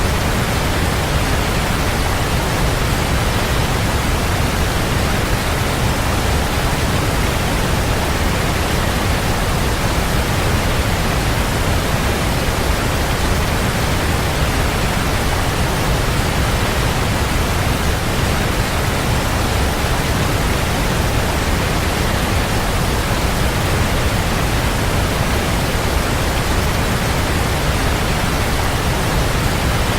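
Waterfall: a steady, unbroken rush of falling water, full and even, with its weight in the low end.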